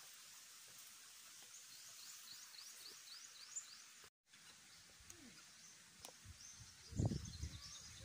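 Faint outdoor ambience with a bird giving a quick series of short high chirps, about four a second, in the first half. The sound cuts out briefly near the middle, and louder low rumbling comes in near the end.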